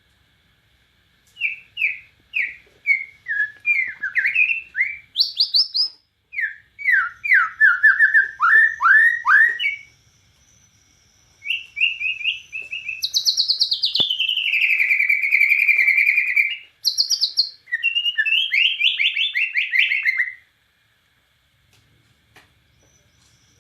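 A Bornean murai batu (shama) singing a loud, varied song of repeated sweeping whistled notes in quick phrases. Midway the bird gives a long, fast trill before returning to whistled phrases. The song stops a few seconds before the end.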